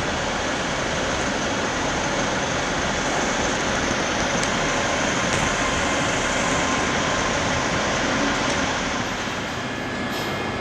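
A train running steadily, an even noise with a few faint steady tones above it.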